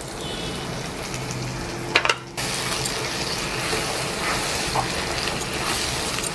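Potatoes frying in oil in a pan, sizzling as a ground cashew-and-coconut paste is scraped in and stirred with a wooden spatula. There is a brief tap about two seconds in, and the sizzle turns suddenly louder just after and stays steady.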